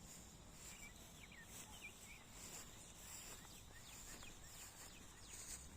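Faint birdsong: scattered short chirps and whistled notes, with a faint steady high hiss behind them.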